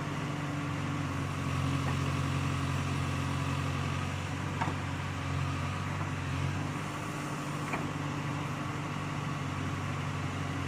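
Case 851 backhoe loader's diesel engine running steadily, its note swelling slightly about a second and a half in and easing off around seven seconds, with a few faint clicks.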